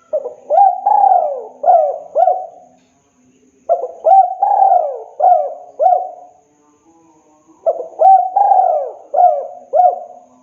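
Spotted dove (tekukur) cooing. It sings three phrases of about five coos each, with a short pause between phrases.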